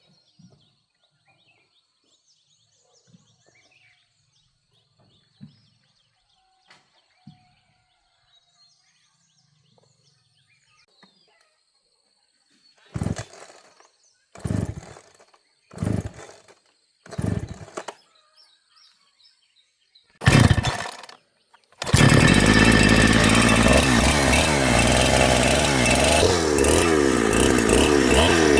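A small engine being started: four short tries about a second and a half apart, a longer one, then it catches a little over halfway through and runs loudly, its speed wavering up and down near the end. Faint birds chirp during the quiet first half.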